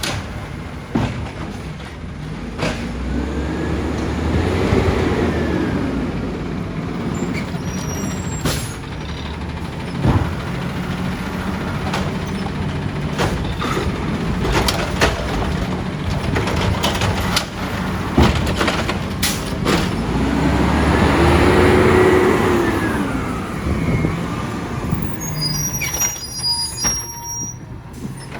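Side-loader garbage truck running, its engine revving up and falling back twice as the hydraulic arm cycles, with sharp metallic clanks and knocks in between. A few short high tones come near the end.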